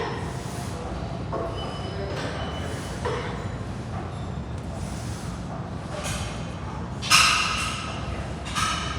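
Steady low background rumble with a few short, sharp knocks; the loudest, about seven seconds in, rings briefly, and a smaller one comes near the end.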